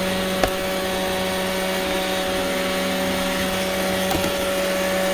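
Roomba robot vacuum running, heard from on top of it: a steady whirring motor hum with brush noise. There is a sharp click about half a second in and a knock around four seconds in.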